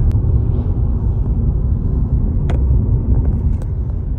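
Steady low road and engine rumble of a moving car, heard from inside the cabin, with a couple of brief clicks.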